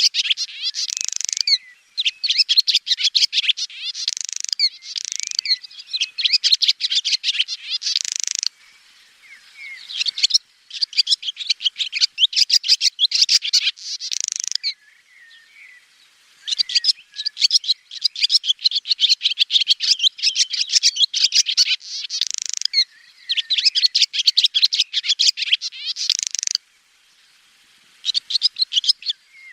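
Swallow twittering: fast runs of high, bright chirps in bouts of a few seconds, broken by three short pauses.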